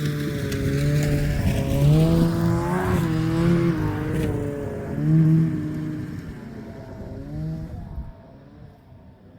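Snowmobile engine revving up and down under throttle, its pitch rising and falling several times, then dropping away sharply about eight seconds in.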